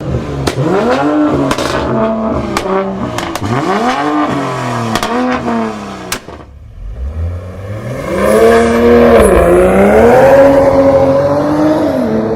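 2021 Acura TLX Type S's turbocharged 3.0-litre V6 revved repeatedly through its quad-tip exhaust, the pitch rising and falling in quick blips, with sharp cracks among the first few. About halfway through it dips, then comes back for two longer, louder revs.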